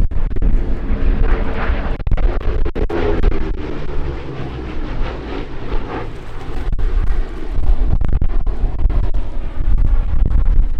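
Lockheed P-38 Lightning's twin Allison V-12 piston engines passing in a fly-by. Their pitch drops about three seconds in as the aircraft goes past, and the engine sound swells loud again near the end.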